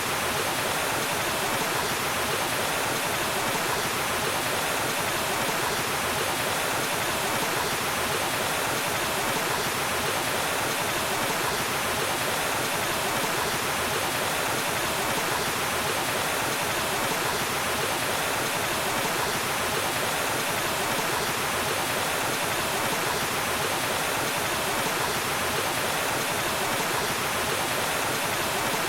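Waterfall, water falling and rushing in a steady, unbroken hiss.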